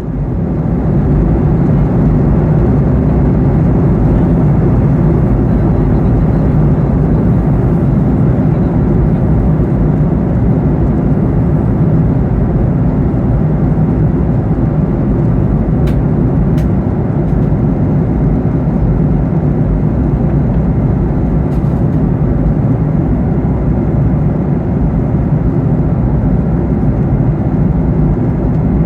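Boeing 737-800 cabin noise in flight: a steady, deep rush of engines and airflow, fading in at the very start and holding even throughout.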